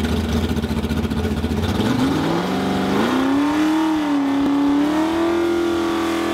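Drag race car's engine idling with a lumpy, uneven beat, then revving up about two seconds in and held at high revs, wavering, until near the end.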